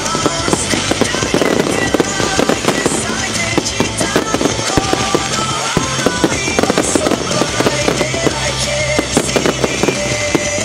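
Fireworks going off in a dense, continuous volley of sharp cracks and bangs, with music playing underneath.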